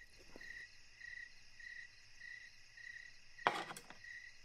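Crickets chirping in a steady, even rhythm, about two chirps a second, over a faint high insect hiss. A short burst of noise cuts in about three and a half seconds in.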